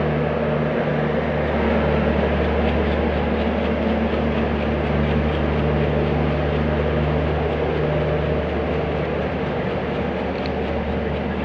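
Steady running noise of a Bangladesh Railway passenger train heard from aboard: a low steady drone with the rumble of wheels on the rails and faint repeated ticks.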